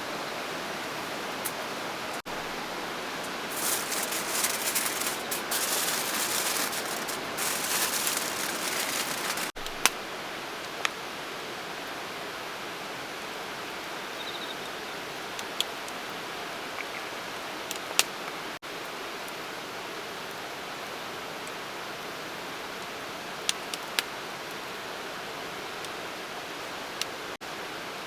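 Steady rushing water noise, with several seconds of louder rustling handling sound early on and a few light clicks scattered later.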